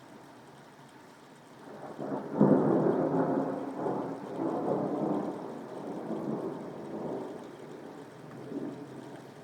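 A peal of thunder over steady soft rain: it builds suddenly about two seconds in, then rolls and rumbles in waves, fading over the next several seconds.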